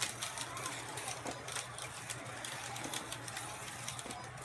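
Carrera Digital 132 slot cars running on the plastic track: small electric motors whining, rising and falling in pitch, with scattered clicks and rattles.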